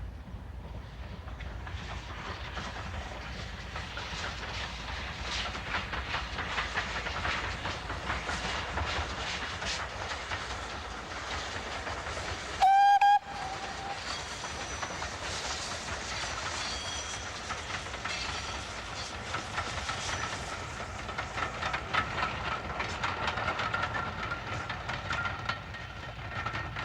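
Steam locomotive running with continuous exhaust and rail noise. About halfway through it gives one short, loud whistle blast.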